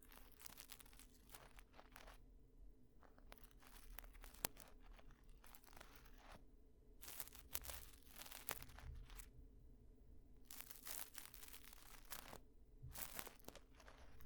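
Close-up ear-cleaning sounds: scratching and crackling of ear-cleaning tools worked against the microphone, coming in several bursts of a second or more with short pauses between. One sharper click stands out about four and a half seconds in.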